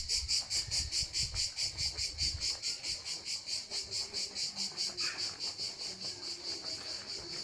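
An insect chirping in a fast, even pulse, about six high chirps a second, slowly growing fainter. A low rumble underneath dies away over the first couple of seconds.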